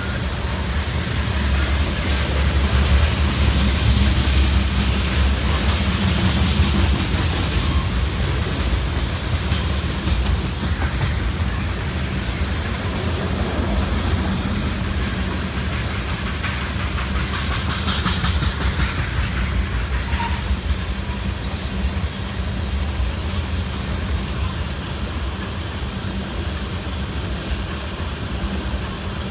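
Freight train of tank cars rolling past: a steady rumble of steel wheels on rail with clickety-clack over the rail joints, a little louder in the first several seconds.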